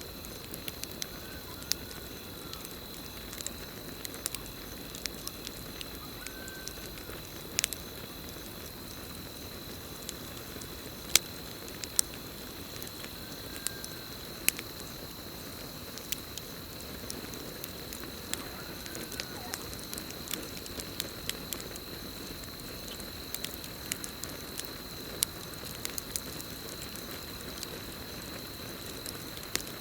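Campfire burning with a steady soft hiss and irregular sharp crackles and pops, the loudest about 11 and 12 seconds in. Under it runs a continuous high, even cricket trill, and a faint short call repeats every few seconds.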